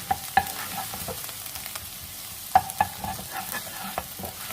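Crushed ginger and garlic sizzling in melted butter and oil in a pan as it is stirred and sautéed, with a few sharp knocks of the spoon on the pan, the loudest about half a second in and about two and a half seconds in.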